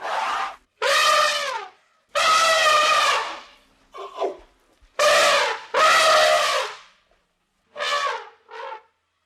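A farm animal calling over and over: eight short, high-pitched calls, some falling in pitch at the end, with short pauses between them.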